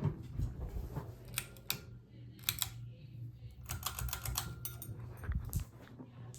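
Hunter Channing ceiling fan running with a steady low motor hum, with scattered sharp clicks and a quick rattling run of clicks about two thirds of the way through.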